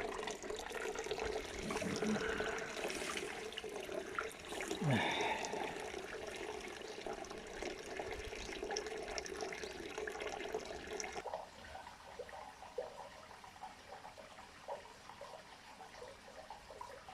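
Water running and splashing steadily, quieter from about eleven seconds in.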